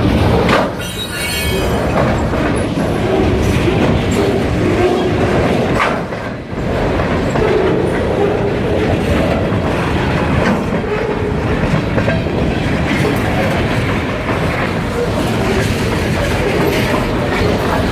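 Kiamichi Railroad freight train rolling past, its wheels clacking over the rail joints, with a brief high squeal about a second in.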